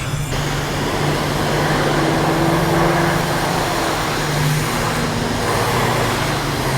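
Car-wash high-pressure rinse wand spraying water against a motorcycle's mirror: a steady loud hiss of spray that starts just after the beginning, with a low steady hum underneath.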